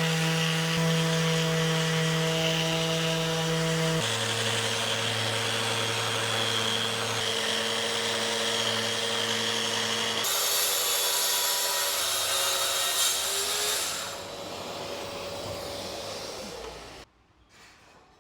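Electric power tool motor running at a steady speed in several short cuts, its hum changing pitch at each cut. It fades to quieter shop noise and then almost nothing near the end.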